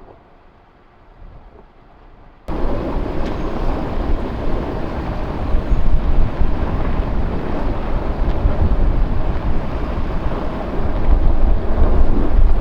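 Quiet background for the first couple of seconds, then an abrupt cut to loud, steady wind rumbling on the microphone, growing a little louder near the end.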